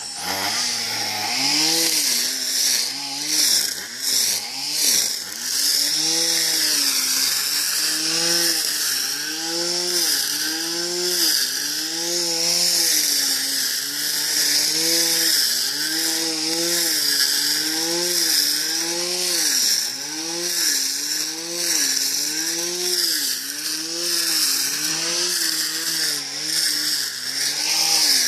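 Homemade string trimmer driven by an old blender motor, running at high speed with a high whine. Its pitch dips and recovers over and over, every second or so, as the motor is loaded while cutting grass.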